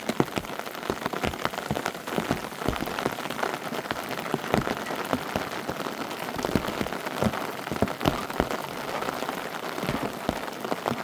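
Steady rain, with many separate drops striking close by at an irregular pace.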